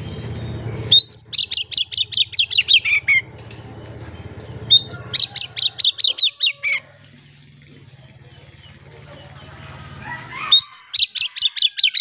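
Oriental magpie-robin (kacer) singing in three bursts of rapid repeated notes, each burst a couple of seconds long and ending in a falling run.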